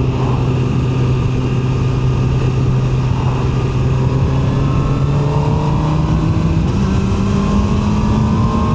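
QJMotor SRK 921 RR's 921 cc inline-four engine running on the move, a steady note that rises in pitch over the last few seconds as the bike accelerates, over constant wind rush.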